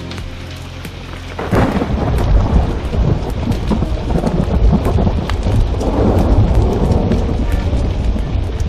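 Thunder breaking about a second and a half in and rolling on as a long low rumble that slowly eases off, over steady rain. Sharp pops and clicks sound throughout.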